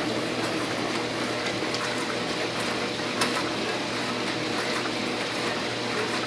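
Brastemp 12-place stainless steel dishwasher running mid-cycle: a steady spray of water inside the tub over the hum of the wash pump, with one light tick about three seconds in.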